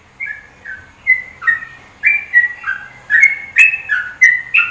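A songbird singing a run of clear whistled notes that step between higher and lower pitches, coming faster and louder as it goes.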